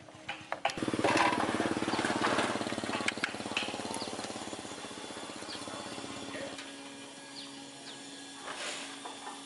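A motor-driven machine starts about a second in and runs with a fast, even pulsing. It is loudest just after it starts and dies down by about two-thirds of the way through, with scattered clicks and knocks over it.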